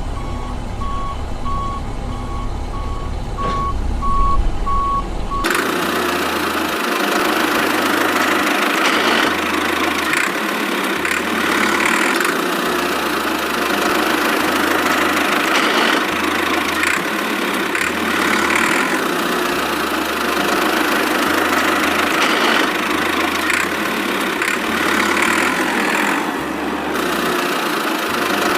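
A small machine's motor running, with an evenly repeating beep over it for the first few seconds. About five seconds in the sound changes abruptly to a louder, noisier running that swells about every two seconds.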